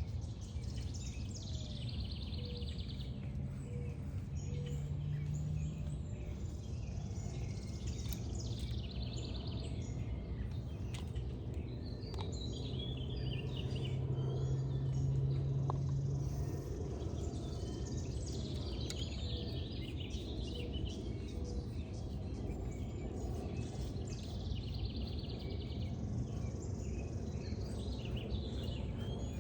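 Outdoor ambience: birds chirping and trilling over and over, above a steady low rumble, with a low hum that swells briefly around the middle.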